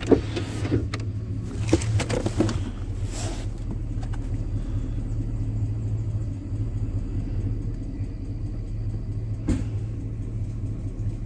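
A truck engine running steadily, heard from inside the cab, with a few sharp knocks and rattles in the first few seconds and another knock near the end.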